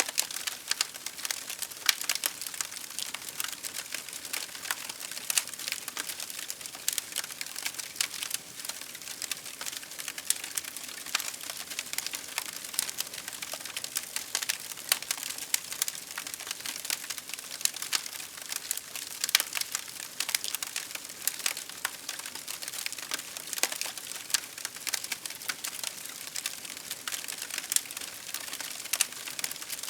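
Wood fire crackling steadily, with dense, irregular sharp pops and snaps over a soft hiss.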